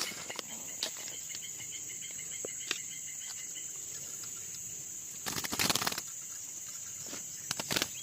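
Steady high-pitched insect drone, with a rapid run of bird chirps in the first second and two bouts of loud rustling, around five to six seconds in and again near the end.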